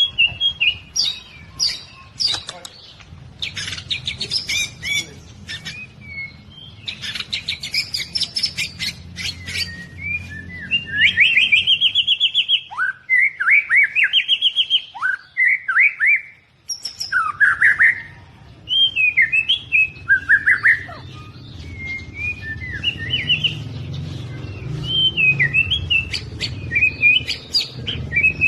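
White-rumped shama (murai batu) singing a long, varied song: fast chattering notes at first, then loud clear whistled phrases that slide up and down.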